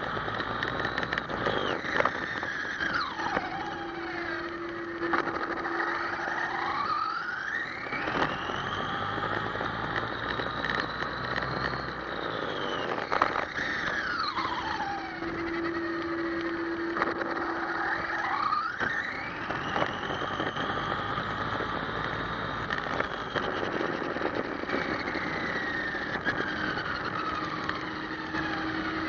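The electric motor of an ECX Amp MT radio-controlled monster truck whines, its pitch rising and falling again and again as the truck speeds up and slows down, over a steady hiss. A few sharp knocks come through along the way.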